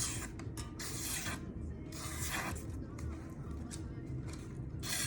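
Freshly sharpened folding-knife blade slicing through a sheet of paper in a paper cut test: several separate slicing strokes, each about half a second of papery hiss.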